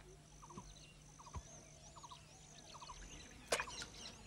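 Faint wildlife ambience: small birds calling in short chirps, often in quick groups of three, repeated every second or so, over a faint steady high tone. A single sharp click about three and a half seconds in.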